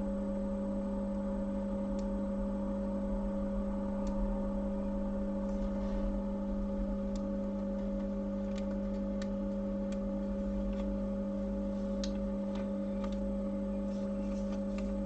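Steady electrical hum with a few faint ticks, and no voice: the iPhone 6's test recording plays back empty, the sign that its upper microphone is not picking anything up.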